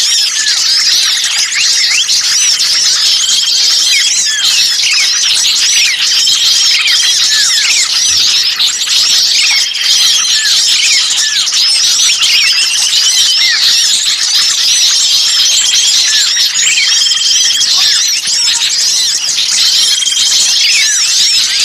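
A dense, agitated chorus of many small songbirds calling at once: rapid high chirps and short rising and falling notes that overlap without pause, with a short flat whistle recurring every few seconds. It is a bird-lure recording of small birds in an alarmed, noisy state, made to draw other birds in.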